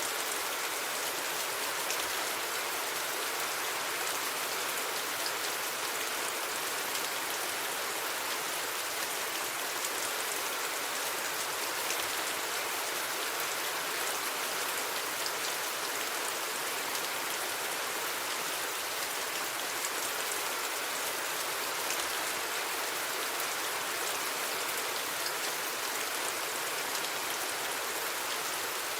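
Steady rain falling, an even hiss of many small drops with fine pattering and no change in strength.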